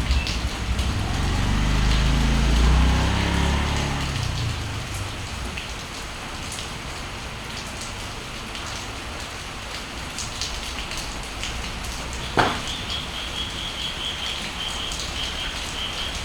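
Steady rain falling, with a motorbike's low engine rumble fading away over the first few seconds. About twelve seconds in there is a single sharp knock, followed by a bird's rapid, high, repeated chirping.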